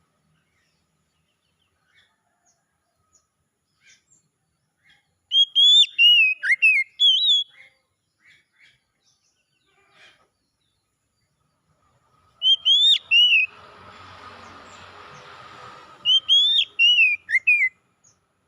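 Oriental magpie-robin (kacer) singing: three short phrases of loud, sweeping whistled notes, with faint short chirps between them. A soft hiss runs for a couple of seconds after the second phrase.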